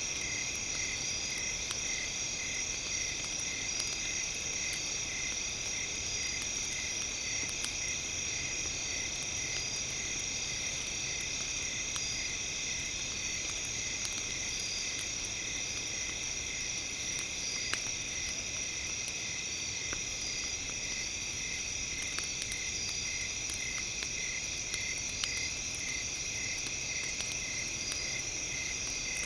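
Campfire crackling, with scattered sharp pops, under a steady layered high-pitched tone, one strand of which pulses evenly, the entrainment tone of a brainwave track.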